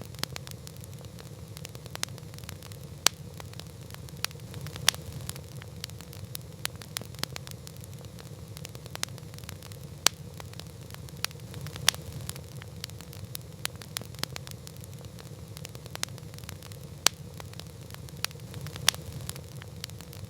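Campfire crackling: irregular sharp pops and snaps, a few of them louder, over a steady low rumble of burning.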